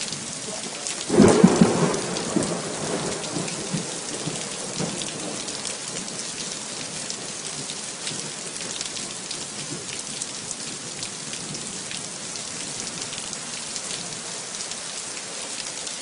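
Steady heavy rain hissing and pattering on surfaces, with a rolling rumble of thunder about a second in that fades over a couple of seconds.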